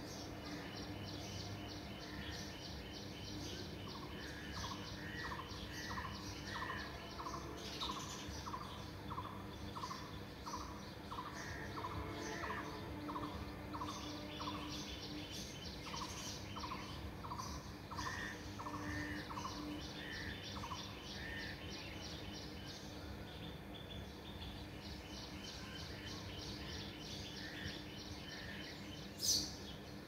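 Birds chirping, with one call repeated about twice a second in runs and faster high twittering over a steady low hum. A single brief sharp noise comes near the end.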